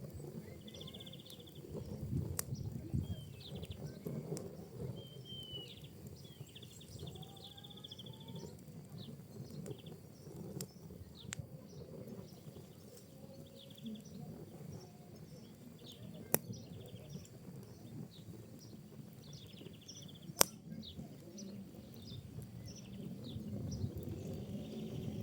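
Wood and pinecone fire burning with a low steady rumble and light crackling. About five sharp pops stand out, the loudest near the end. Short high chirps, trills and faint rising whistles are heard throughout.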